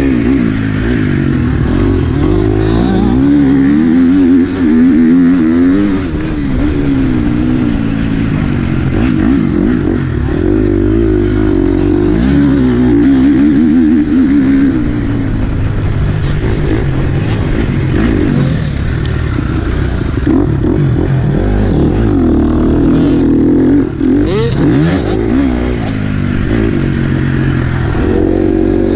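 Motocross bike engine running hard, its pitch rising and falling again and again as the throttle is opened and closed around the track.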